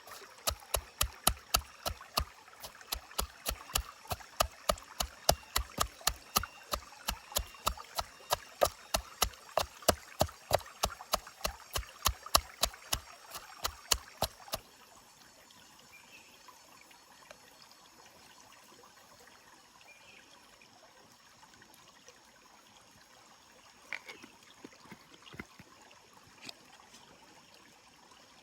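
A quick, even run of sharp knocks, about three or four a second, that stops abruptly about halfway through. After it comes the faint steady rush of a stream, with a few light clicks near the end.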